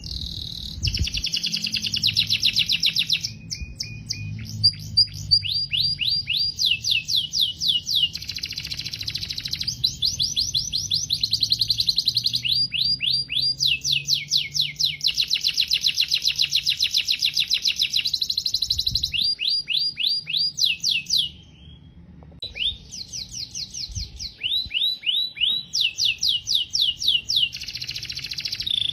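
Domestic canary singing a long continuous song of fast trilled phrases, each a rapid run of repeated notes, switching from one tour to the next with a brief pause about two-thirds of the way through.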